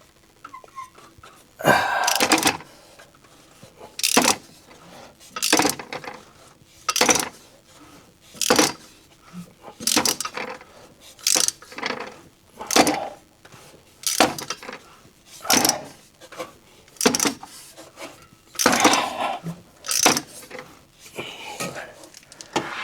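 Hand ratchet turning the crankshaft of a 1984 Chevrolet S10 Blazer's 2.8 V6 that had been seized, with a burst of metallic ratchet clicking on each stroke, about every second and a half. This is the engine being rotated by hand now that it has come free.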